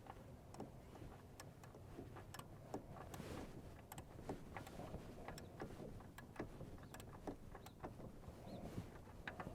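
Ratchet wrench and socket clicking faintly in uneven strokes, a few clicks a second, as a new PCV valve is tightened into the engine.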